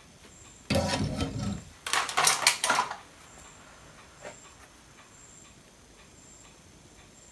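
Two short bursts of clinking and clattering from small hard objects, tools or parts, being handled and set down on a workbench, then a single faint knock.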